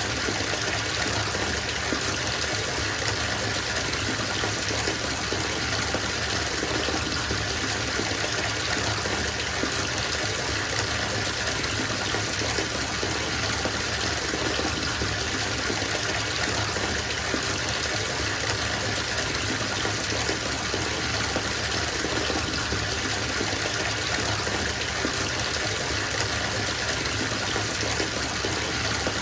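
Water gushing steadily from a bathtub tap into the filling tub, an even, unchanging rush.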